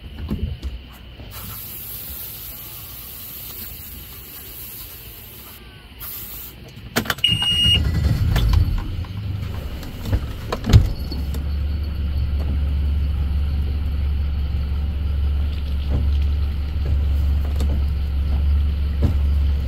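Knocks and a short high beep, then a steady low motor hum.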